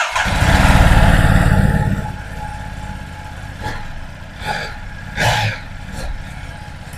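Ducati DesertX's 937 cc L-twin engine, started up and revved loud for about two seconds, then settling into a lower steady idle with a few brief throttle blips.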